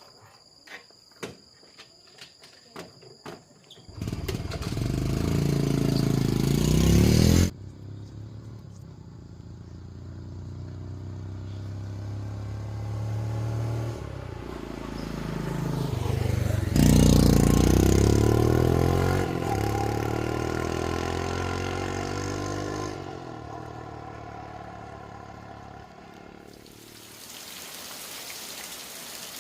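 A handful of sharp clicks, then a motorcycle engine starting about four seconds in and revving up with rising pitch. It runs on at a steadier pitch, surges and rises again about halfway through, then fades away.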